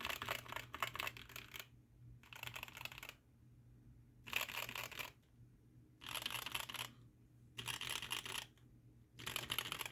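Mode80 mechanical keyboard with an aluminium plate, lubed ThicThock Konpeito switches and GMK keycaps being typed on in quick bursts of keystrokes. There are about six clattering bursts with short pauses between them.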